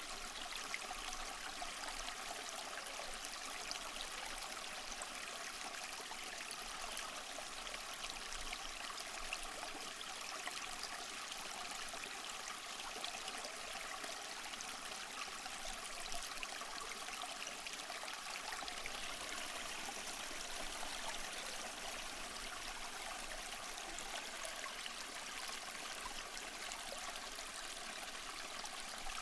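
Small waterfall splashing and trickling over mossy rocks: a steady, even rush of falling water with light splashes and little low rumble.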